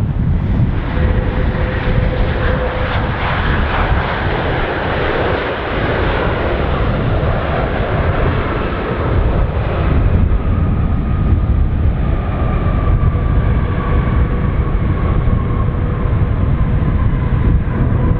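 Airbus A330-243 airliner's Rolls-Royce Trent 700 jet engines on a close landing pass: a loud, steady rumble with a thin whine that slowly falls in pitch in the second half.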